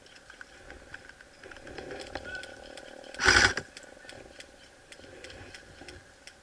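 A short burst of airsoft gun fire about three seconds in, between faint scattered clicks and rustling.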